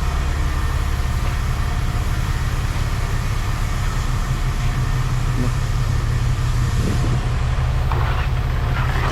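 An engine idling steadily, a constant low rumble.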